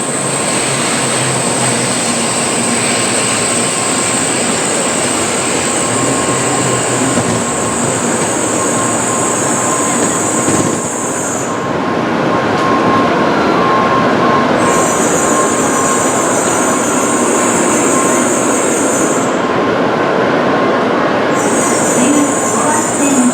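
A Tokaido Shinkansen train running past along the station platform, with a steady loud rumble of wheels and running gear. A high hiss over it drops out twice for a few seconds.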